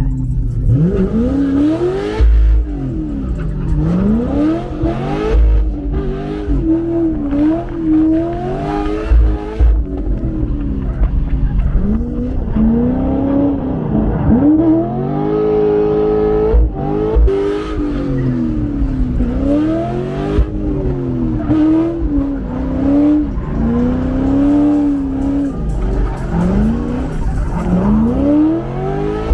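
Corvette drift car's engine revving hard and falling back again and again as the throttle is worked through a drift, with tires squealing.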